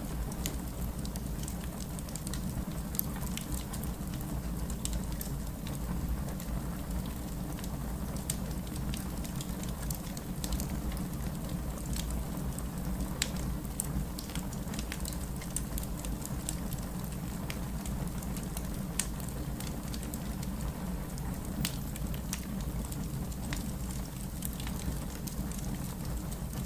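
Wood fire burning in a fireplace: a steady low rumble of the flames with frequent small sharp crackles and pops scattered throughout.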